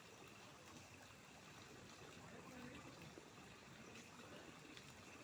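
Near silence: a faint, steady hiss of outdoor ambience with faint voices in it.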